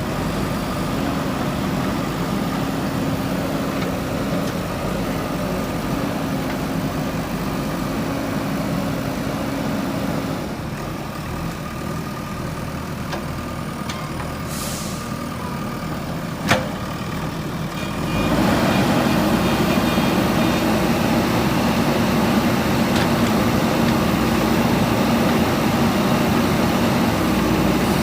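JCB 3DX backhoe loader's diesel engine running steadily. It eases off about ten seconds in, then picks up to a louder, higher note at about eighteen seconds and holds it. A single sharp knock comes at about sixteen seconds.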